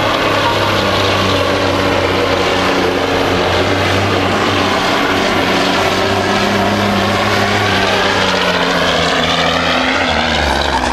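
Old Brockway pulling truck's engine running hard at full throttle as it drags the weight sled, a loud steady drone. The higher tones sweep in pitch partway through as the truck moves along the track.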